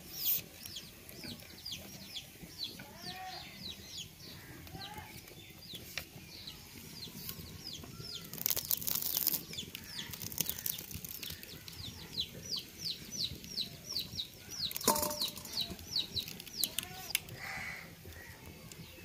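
Birds chirping steadily in quick succession, several short, high, falling chirps a second, with a few lower calls mixed in. There is a brief rustling noise about eight and a half seconds in and a sharp knock near fifteen seconds.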